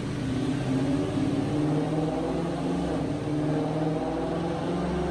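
Supercharged Lexus RC F's 5.0-litre V8, fitted with aftermarket headers and a valved exhaust, running on a chassis dyno with the rear wheels driving the rollers. The engine note steps up and down in pitch and falls away near the end.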